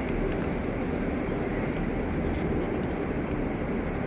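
Steady outdoor background noise: a broad, even rumble and hiss with no distinct events standing out.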